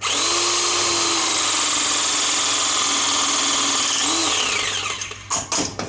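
Battery-powered press tool running a pressing cycle on a 50 mm >B<Press gas fitting: the motor starts abruptly and runs at a steady pitch for about four seconds, then its pitch falls and it winds down as the press completes. A few sharp clicks follow near the end.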